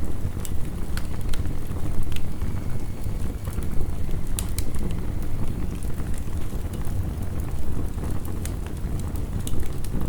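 Heavy rain as a steady low rushing noise, layered with a wood fire crackling: sharp pops and snaps scattered irregularly throughout.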